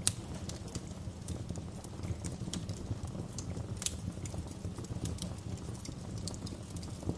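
Wood fire in a fireplace crackling: a steady low rumble of burning under irregular sharp pops and snaps, with louder pops right at the start and about four seconds in.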